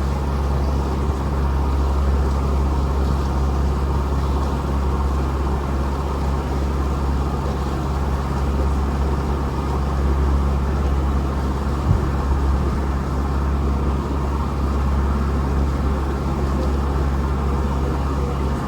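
Boat engine running steadily with a constant low hum. A single brief knock sounds about twelve seconds in.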